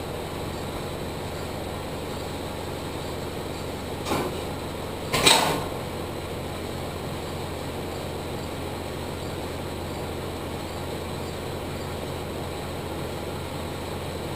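Steady low mechanical hum with two short clunks about four and five seconds in, the second louder.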